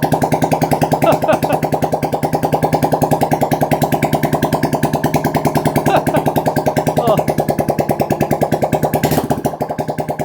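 Honda CRF110's single-cylinder four-stroke engine idling with no exhaust fitted, so it runs straight off the open exhaust port. It puts out a loud, even stream of rapid pulses that sounds like a bubble machine.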